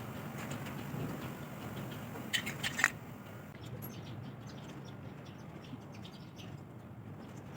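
Birds chirping faintly over a steady low background noise, with a short burst of sharper chirps between two and three seconds in.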